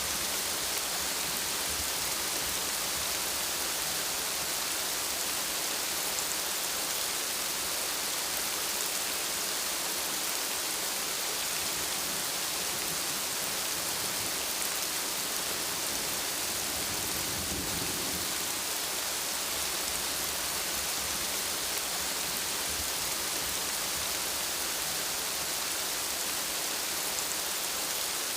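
Steady rainfall: an even, continuous hiss of rain on surfaces, without pause.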